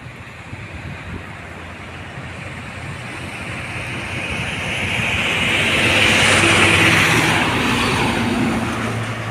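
A truck approaching and passing on the road: engine hum and tyre noise grow steadily, are loudest about six to seven seconds in, then fade.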